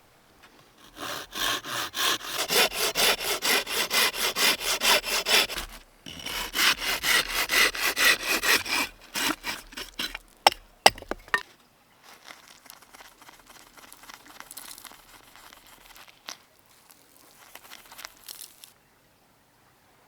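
Hand saw cutting wood in quick back-and-forth strokes, about four a second, in two runs of several seconds with a short break between. Then two sharp knocks, followed by quieter handling noise.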